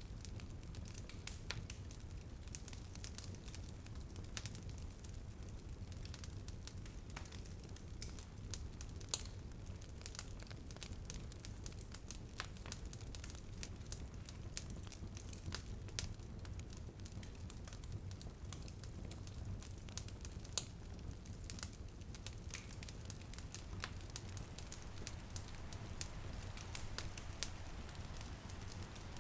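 Wood fire crackling in a fireplace: frequent irregular sharp pops and snaps, a few louder than the rest, over a steady low rumble.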